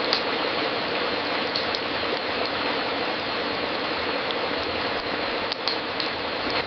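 Wood fire crackling in a fireplace: a steady hiss with a few sharp pops scattered through, about a second in and a couple close together near the end.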